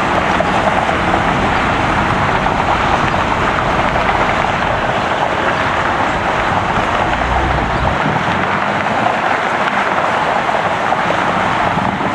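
Jet engines of a heavy airliner at takeoff power: a loud, steady roar that goes on without a break. The low rumble underneath fades about two-thirds of the way through.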